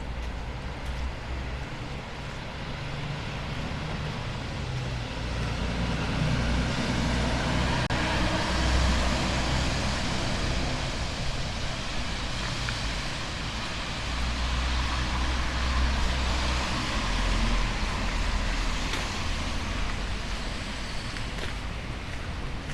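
Road traffic passing on a wet street: tyre hiss and a low engine rumble swell from about five seconds in and ease off near the end.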